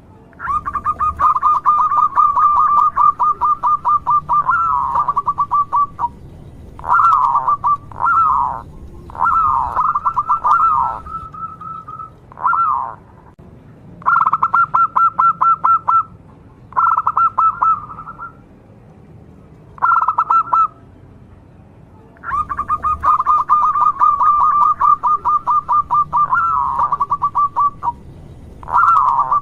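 Zebra dove (perkutut) male singing its cooing song: phrases of rapid stuttering coos on one pitch, some running about five seconds and others short, with brief pauses between.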